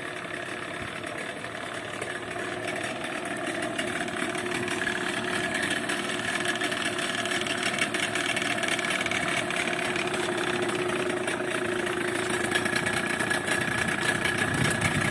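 New speedboat engine idling steadily while being warmed up, growing gradually louder over the seconds.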